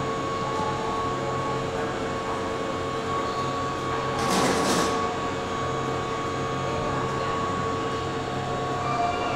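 Steady hum of a Keihan 8000 series train's running equipment, with a few fixed tones, and a brief hiss about four seconds in.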